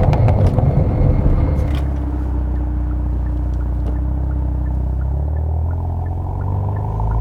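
Hyundai Veloster N slowing to a stop on a wet road. Tyre and road noise fades out about two seconds in, and the engine then runs steadily at a low, even note.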